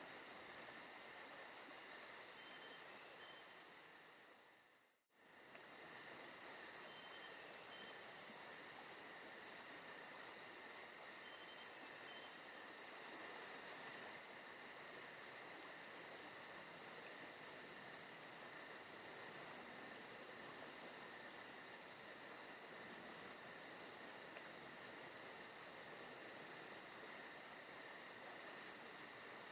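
Faint forest-ambience recording of crickets and other insects chirring steadily. The sound dips away to almost nothing about five seconds in and comes straight back.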